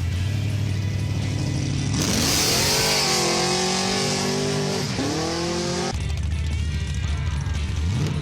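Muscle car engine idling, then revving hard with tires spinning and squealing for about four seconds: the engine climbs, dips briefly, climbs again, and cuts back suddenly to a rumbling idle.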